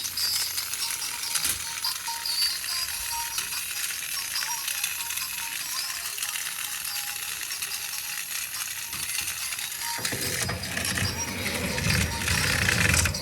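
Rapid clicking and rattling of the plastic RC crocodile toy's parts, with music alongside. About ten seconds in, the sound grows fuller and lower.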